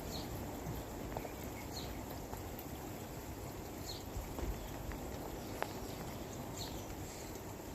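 Outdoor ambience: a steady hiss with short, high chirps every few seconds and a few faint ticks.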